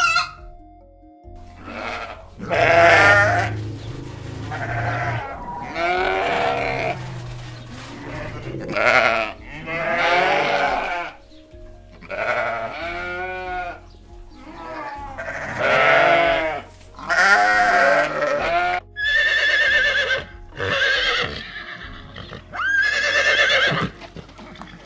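Sheep bleating over and over, each a long wavering call. From about 19 seconds in, horses whinny several times.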